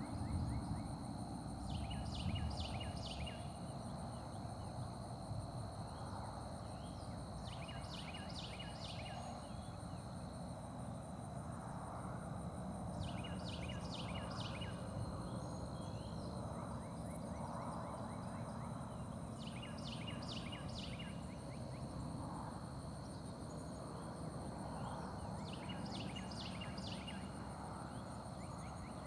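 Carolina wren singing its loud rolling song five times, one phrase about every six seconds. Each phrase is a quick run of repeated notes. A steady high-pitched whine and a low rumble go on underneath.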